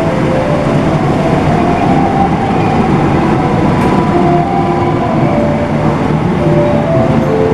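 Passenger train running on the track with a steady rumble, and short, high wheel squeals at shifting pitches coming and going.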